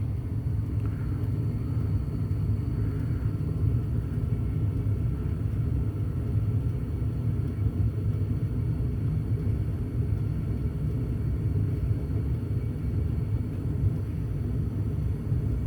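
Gas furnace firing in normal operation, its burner flame lit and draft inducer fan running: a steady low rumble with a faint steady whine above it.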